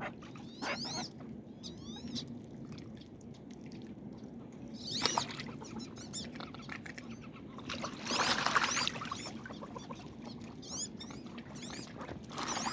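Wood ducks calling: thin squealing whistles that rise and fall, coming in short clusters, with a louder, harsher call about eight seconds in.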